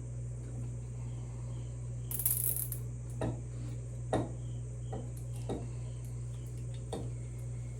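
A short rustling burst about two seconds in, then a handful of light, separate clicks and knocks from hand work on the motorcycle's front end, over a steady low hum.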